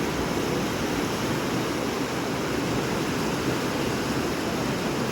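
Whitewater rapids on the Blackfoot River rushing steadily, an unbroken low rush of water.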